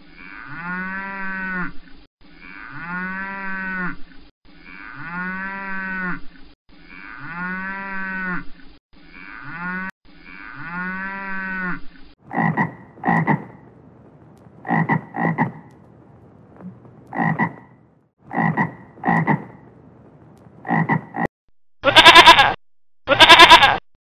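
Cow mooing, the same long call repeated six times about two seconds apart. Then a run of shorter, higher animal calls. Near the end, three loud goat kid bleats.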